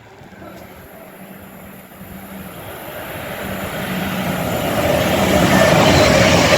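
Avanti West Coast Evero electric multiple unit approaching, growing steadily louder, with a steady whine coming in over the rising rail and wheel noise about halfway through.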